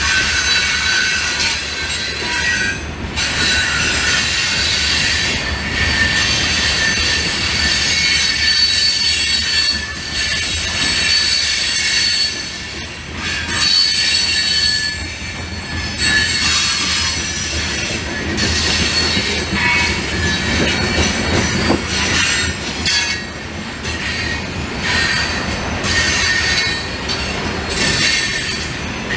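Loaded grain hopper cars of a freight train rolling through a crossing: a steady rumble of wheels on rail, with wheel squeal that comes and goes as high, shifting whistling tones.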